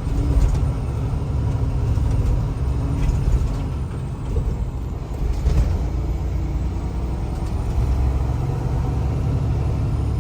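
Semi truck's diesel engine and road noise heard inside the cab while driving: a steady low rumble.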